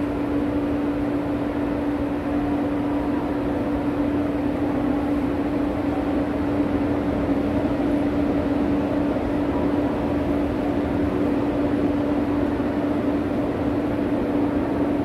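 Steady hum over a low rumble, heard inside a parked electric commuter train car while a KTX high-speed train departs on the adjacent track.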